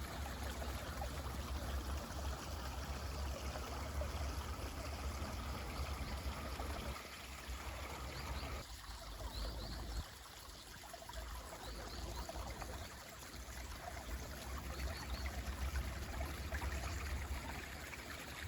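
Mountain stream running steadily, a continuous rush of water with a deep low rumble, dipping briefly a little past the middle. A few faint, short high chirps of birds come over it in the middle and latter part.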